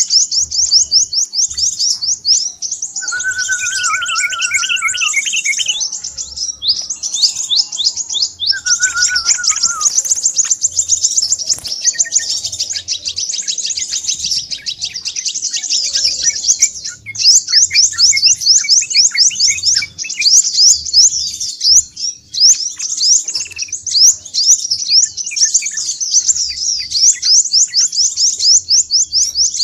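Crimson sunbird calling without pause: a fast, high-pitched chattering trill of rapid notes that runs on nearly without a break. Lower whistled phrases break in about three seconds in and again around nine seconds. This is the agitated calling played as a lure to draw sunbirds in.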